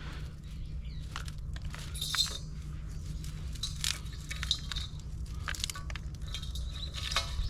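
Irregular snaps, crunches and light clinks of kindling and firewood being handled to build a campfire, over a steady low rumble.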